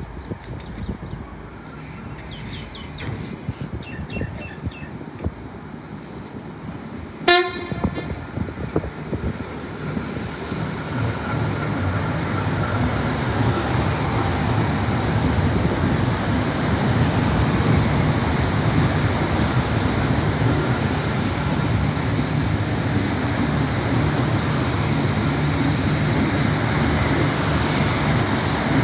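A train horn gives one short toot about seven seconds in. Then the rumble of a passing train builds over several seconds and runs on steadily, with a thin high whine joining near the end.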